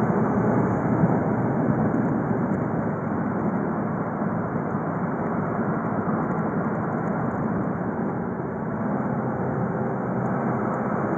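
VW Golf V 2.0 TDI (BKD) turbodiesel on the move, a steady mix of engine and road noise with no revving or turbo flutter heard.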